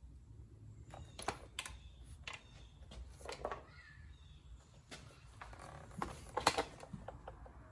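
Irregular light clicks and knocks of a used chainsaw being handled and turned over, with a sharper knock about six and a half seconds in.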